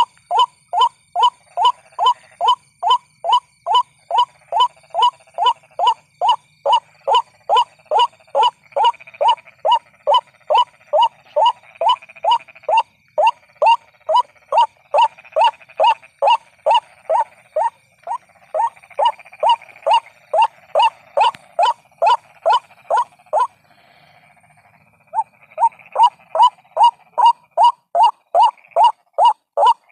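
White-breasted waterhen lure call: the same note repeated over and over, two to three times a second, with a gap of about two seconds near the end before the run resumes.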